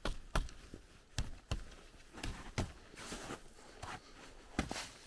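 Irregular knocks and short crunching rustles, a few to the second, of a person moving about on frozen, snowy ground.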